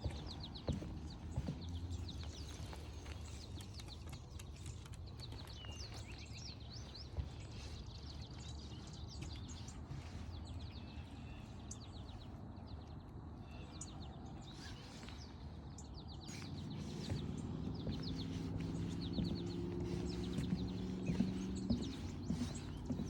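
Footsteps on a forest trail with small birds chirping and trilling in the trees. About two-thirds of the way in, a low, steady engine drone from a passing vehicle or aircraft rises and holds.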